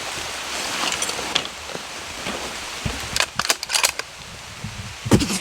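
Gear being handled by hand: scattered sharp clicks, a quick run of them about three seconds in, and a dull thump near the end, over a steady hiss of rain.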